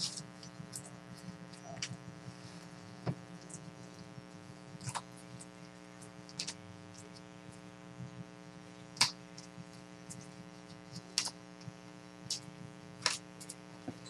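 Steady electrical mains hum with a dozen or so irregular short clicks and snaps from trading cards being handled and sorted by hand.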